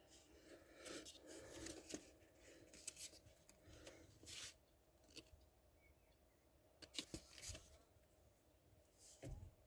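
Faint scattered clicks and rustles of something being handled, with near silence between them.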